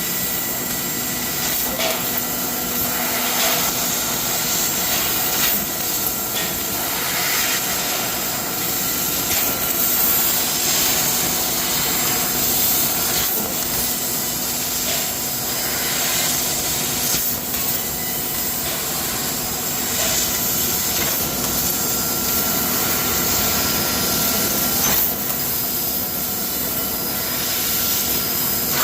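CNC laser cutting machine running: a continuous hiss with faint steady whining tones and occasional brief scraping or clicking sounds.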